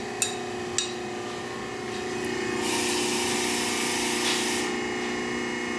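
Two sharp metal knocks as exhaust pipe pieces are handled, then a hiss of about two seconds over a steady shop hum.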